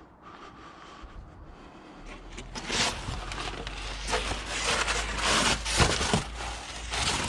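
Rustling, scraping and knocking of junk being rummaged through and handled, starting about two seconds in and going on busily.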